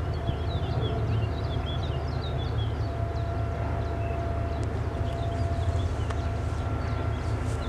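Push tug's diesel engines running steadily: a low, pulsing rumble with a thin steady whine above it.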